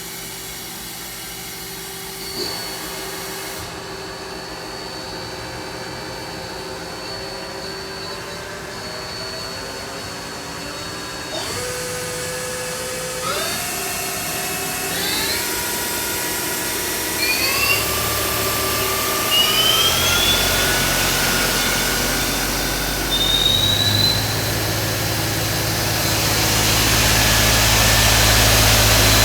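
Mazak Quick Turn QT-300 CNC lathe's spindle running with a steady whine. From about halfway through, the whine steps up in pitch several times in quick succession as the spindle speed is raised, and it grows louder toward the end.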